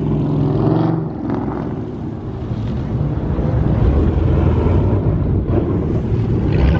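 Dodge Scat Pack's 6.4-litre HEMI V8 exhaust running, its deep note growing louder through the second half, with wind buffeting the microphone.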